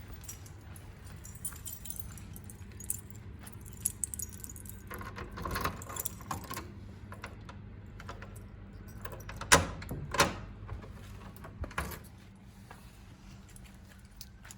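A bunch of keys jangling and clicking as a door is unlocked, with a few sharp knocks of the door and its latch about ten seconds in, over a low steady hum.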